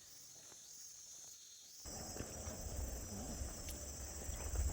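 Steady high-pitched drone of forest insects (cicadas or crickets). About two seconds in it jumps abruptly louder, and a low rumble and hiss join it.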